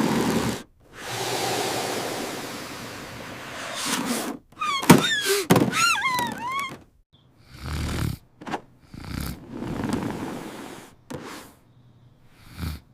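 A run of cartoon sound effects: a long swelling whoosh, then sharp knocks and a string of squeaky cries that rise and fall in pitch, followed by several shorter bursts of noise with gaps between them.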